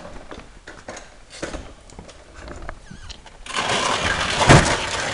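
A few light clicks and knocks, then about a second and a half of loud scraping noise near the end, with one sharp knock in the middle of it.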